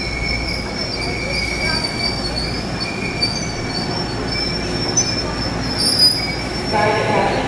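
Taiwan Railways electric commuter train rolling slowly into the platform, with a steady high-pitched metallic squeal from its running gear over the low rumble of the cars.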